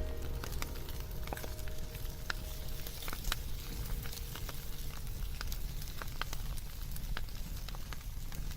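Wood fire burning, crackling with irregular sharp pops and snaps over a soft steady hiss. A held musical tone fades out in the first few seconds.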